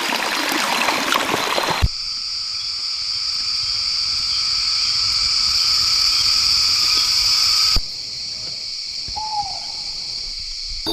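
Rainforest ambience in cut-together segments. First there is running water; about two seconds in it cuts to a steady, high-pitched drone. That drone stops abruptly near the end and gives way to quieter forest sound with one short gliding call.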